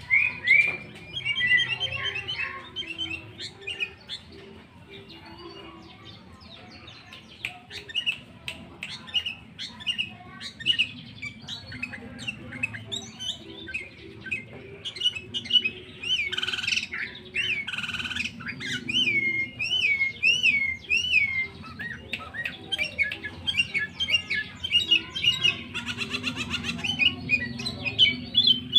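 Sooty-headed bulbul (kutilang) singing vigorously: a busy string of short repeated chirping notes, with a run of looping, up-and-down whistled notes about two-thirds of the way in.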